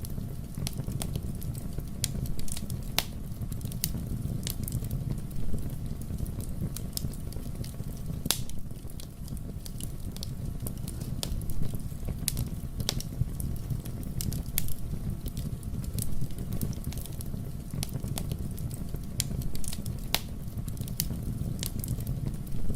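Wood fire burning in a fireplace: irregular sharp pops and crackles, a few each second, over a steady low rumble of flames.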